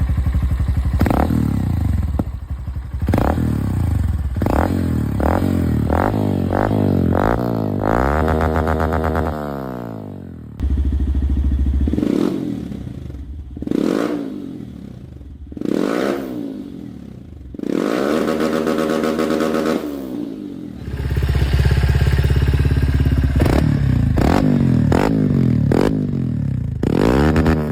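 Honda Bros single-cylinder motorcycle engine with an aftermarket exhaust, revved in a series of sharp throttle blips that rise and fall back to idle. The sound changes abruptly about ten seconds in and again about twenty-one seconds in.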